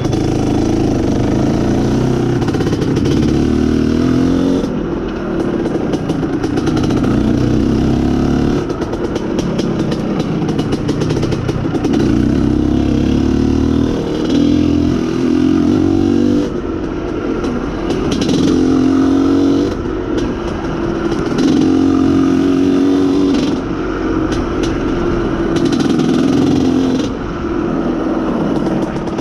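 Motorcycle engine, most likely the IZh Planeta Sport's single-cylinder two-stroke, running under way. Its note climbs in spells of a few seconds and drops between them, as with throttle and gear changes.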